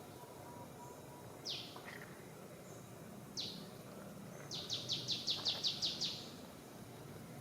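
A bird calling: two single high notes that slide downward, then a fast run of about ten chirps near the end, over steady outdoor background noise.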